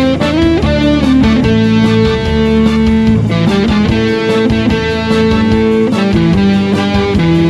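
Electric guitar playing the lead melody of an instrumental rock cover over a backing track with bass and drums.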